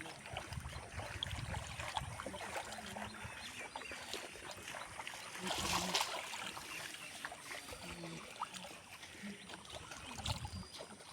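Water sloshing and splashing as hands feel through shallow muddy water, with a louder splash about six seconds in.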